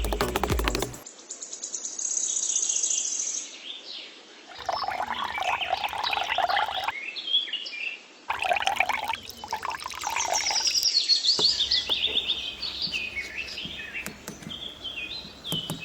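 Small birds chirping and twittering, many short high calls overlapping, after a snatch of music that stops about a second in.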